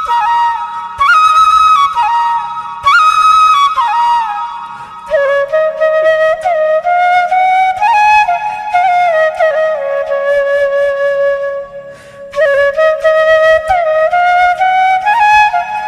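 Background music: a solo flute melody with sliding, ornamented notes, in phrases broken by short pauses about four and twelve seconds in.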